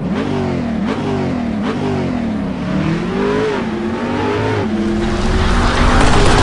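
Car engine accelerating hard through the gears. The pitch climbs and drops back at each shift, about four times, then holds steady and high near the end.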